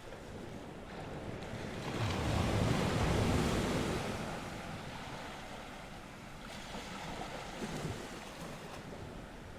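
North Sea waves washing onto the shore: one wave swells and breaks about two seconds in and fades away, and a smaller one follows near the end. Wind runs under it, rumbling on the microphone.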